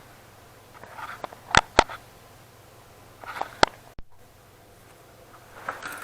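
Sharp clicks and light scraping from small parts and tools being handled while a graphics card is worked on. Two clicks close together about a second and a half in, and one more a little past the middle, each with brief rustling around it.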